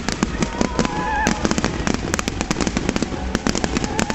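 Fireworks bursting in a dense, rapid run of crackling bangs and pops, several every second, over a low rumble.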